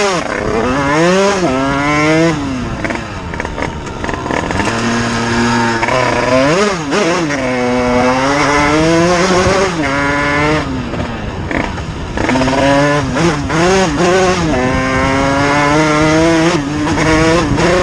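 Motorcycle engine revving hard as it accelerates, its pitch climbing and then dropping back again and again as it shifts up through the gears.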